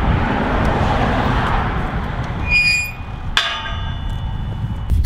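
Wind buffeting the microphone, with a short high electronic beep about two and a half seconds in and a sharp click followed by a fading ringing tone a second later.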